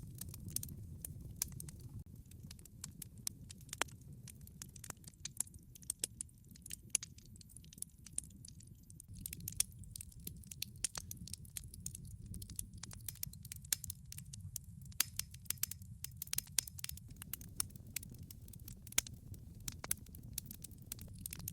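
Wood fire burning in a wood-fired pizza oven: irregular sharp crackles and pops over a low, steady rumble of the flames, the crackling busier in the second half.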